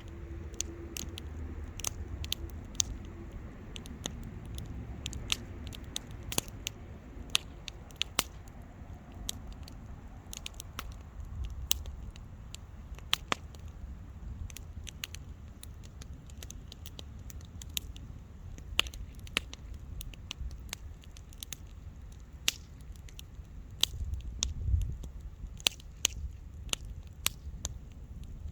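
Wood bonfire crackling: irregular sharp pops and snaps, several a second, over a steady low rumble of the burning fire.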